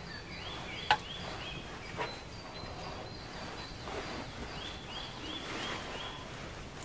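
A bird calling, with a run of short high falling notes twice, over a steady faint background; two sharp clicks about one and two seconds in.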